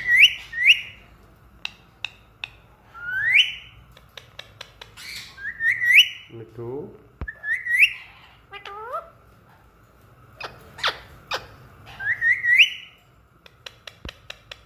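Pet parrot whistling, a series of rising whistled notes often given in quick pairs, mixed with short sharp chirps and clicks.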